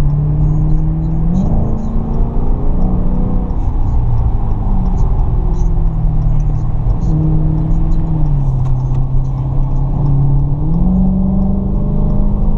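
Dodge Challenger Scat Pack's 6.4-litre HEMI V8 and road noise heard from inside the moving car. The engine note holds steady, then rises or falls several times as the speed changes.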